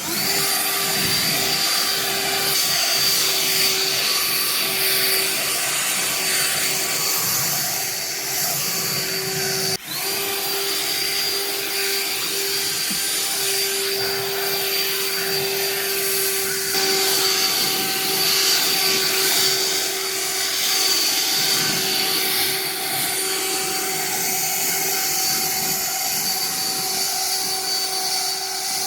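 EGO cordless leaf blower running steadily at speed: a rush of air with a steady fan whine on top, broken briefly about ten seconds in.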